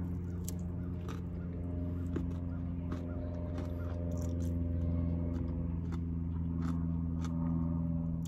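Close-up chewing and crunching of fried chicken wings and french fries, with scattered moist clicks, over a steady low hum.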